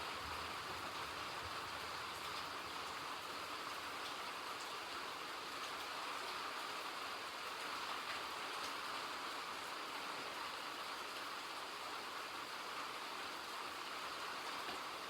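Steady rain: an even, unbroken hiss with a few faint drop ticks.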